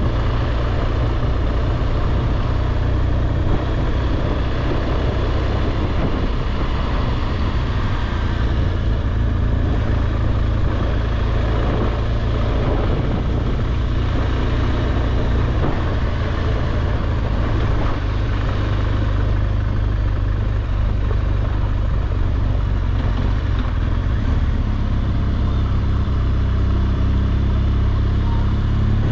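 BMW R1200GSA boxer-twin engine running steadily while riding at an even pace, with a constant rush of wind and road noise over it.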